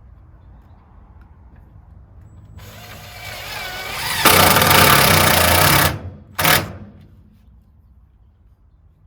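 Power drill running: it winds up over about a second and a half, runs at full speed for nearly two seconds, stops, then gives one short burst.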